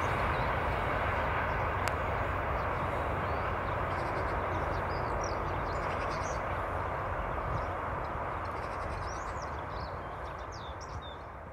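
Passenger train hauled by a TEP70 diesel locomotive running away on the track, its steady rumble slowly fading. Birds chirp from about halfway through.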